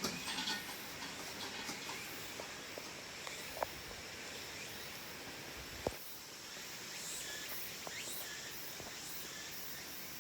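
Steady rushing of a waterfall, with a couple of sharp clicks partway through.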